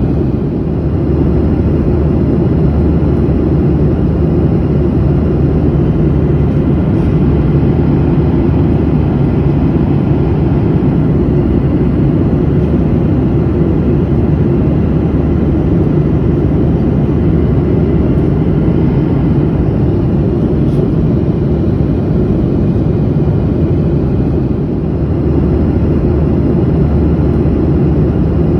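Airliner in flight: a steady, low-pitched rush of engine and airflow noise as heard from inside the cabin, dipping slightly for a moment near the end.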